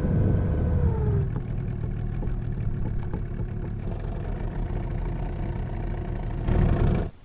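A motor engine running with a low rumble. Its pitch drops in the first second as it slows, then runs steadily until it cuts off abruptly near the end.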